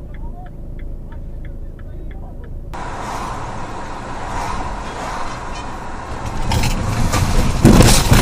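Car road and engine rumble from a dashcam, at first with faint regular ticking. It then gives way to louder, fuller road noise that builds to several loud knocks and bangs near the end.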